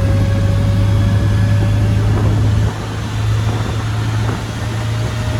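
1965 MGB's 1.8-litre four-cylinder engine and new muffler exhaust droning steadily on the move, heard from the open cockpit with the top down. The drone drops abruptly in level about two and a half seconds in.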